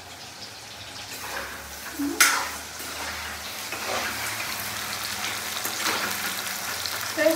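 Food sizzling as it fries in a pan and is stirred, with one sharp knock about two seconds in.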